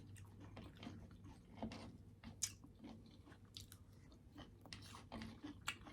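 Faint chewing of a mouthful of food, with scattered soft mouth clicks and smacks.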